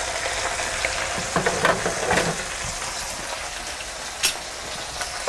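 Duck pieces and chopped vegetables sizzling steadily in a hot enamelled Dutch oven, with a few small taps of a knife scraping garlic off a garlic press and one sharp click a little over four seconds in.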